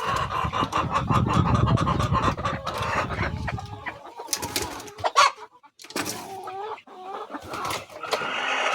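Hens clucking in short rising and falling calls. Dense clicking and rustling fills the first half.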